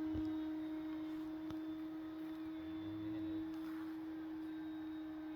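Steady, unchanging hum of the electric motors and propellers of two E-flite P-51D Mustang RC warbirds in flight, a single held tone.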